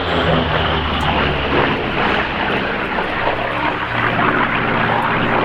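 Grumman F8F Bearcat fighter's Pratt & Whitney R-2800 radial engine running loud in flight, its note shifting a little in pitch during the run.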